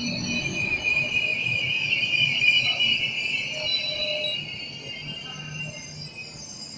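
PKP Intercity passenger coaches rolling slowly along the platform with a high metallic squeal of several tones from the wheels, loud at first and fading after about four and a half seconds.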